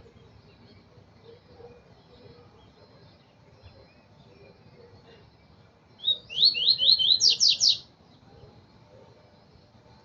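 Double-collared seedeater (coleiro) singing one short, loud phrase of about eight quick down-slurred notes, climbing higher in pitch toward the end, starting about six seconds in.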